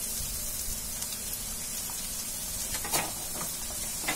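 Chopped onions and spices sizzling gently in mustard oil in a kadhai on a low flame, with a couple of sharp clicks of the metal slotted spoon against the pan, about three seconds in and again near the end.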